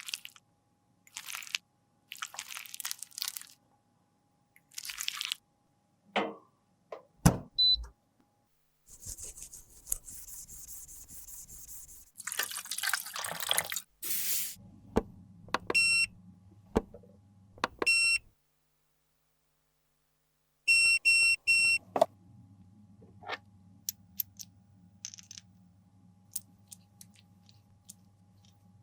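Makeup being worked by hand: short scraping and crunching strokes and a few clicks, then a hiss. A device then gives several short electronic beeps, three in quick succession near the middle, and a low steady hum follows.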